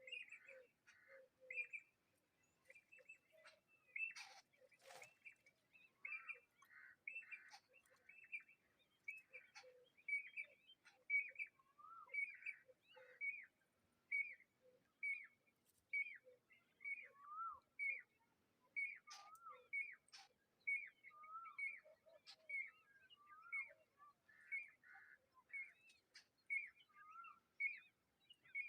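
A parent bird calling over and over at a chick out of its nest: short high chirps about once or twice a second, mixed with lower notes and some downward-sliding calls. A brief knock comes about four to five seconds in.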